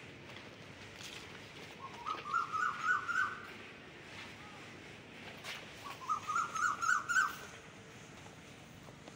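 A bird calling twice, about four seconds apart, over faint outdoor background noise. Each call is a quick run of about seven short rising notes that climb slightly in pitch.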